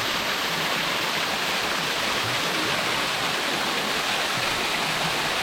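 Small waterfall running at low flow: a steady, even rush of falling and splashing water.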